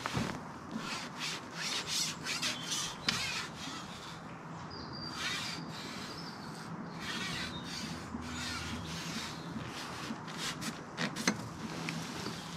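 Repeated short rubbing and scraping strokes, uneven in timing, with a few sharper clicks, from fishing tackle being handled while a hooked fish is played.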